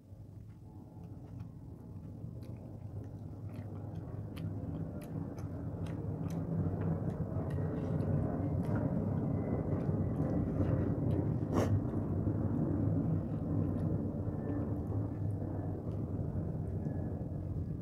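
Close-miked chewing of rice and fish eaten by hand, with many small mouth and finger clicks as the food is worked on the plate, and one sharp click about two-thirds of the way through. Under it runs a low rumble that grows over the first several seconds and then holds steady.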